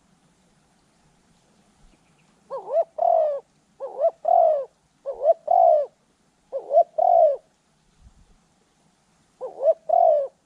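Spotted dove cooing: five two-part coos, each a short note followed by a longer one. The first four come a little over a second apart, and the last follows after a pause of about three seconds.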